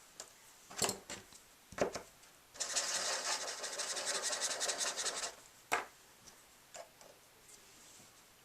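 Glue pen tip scribbled rapidly back and forth over a small paper cloud for about two and a half seconds, a dense scratchy rubbing on paper. A few light knocks of paper and card being handled come before it, with a sharper one just after.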